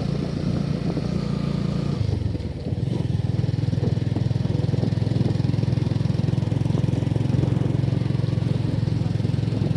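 Motorcycle engine running steadily while riding uphill. Its note dips briefly about two seconds in and then holds steady.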